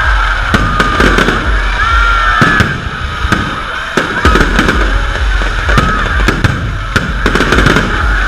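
Aerial fireworks shells bursting in a rapid, irregular series of bangs over a continuous rumble.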